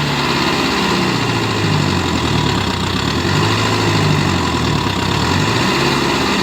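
Tractor diesel engine running steadily, its low note wavering a little in pitch and strength.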